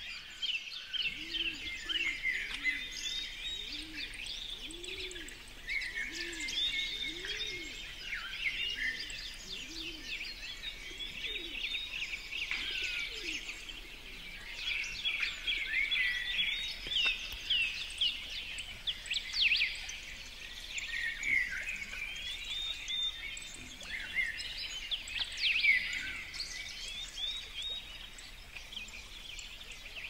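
Several songbirds chirping and singing, a busy overlapping mix of short quick chirps and trills. A faint low call repeats about once a second for the first several seconds.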